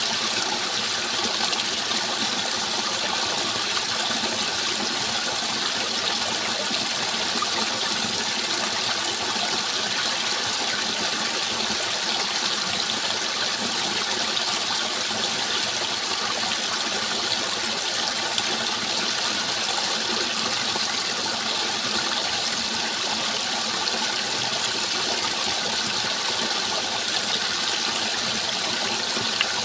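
Steady rushing water, an even hiss that stays the same from start to end without breaks or separate splashes.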